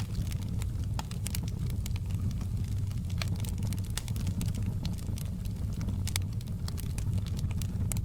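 Wood fire burning in a fireplace: frequent irregular crackles and small pops over a steady low rumble.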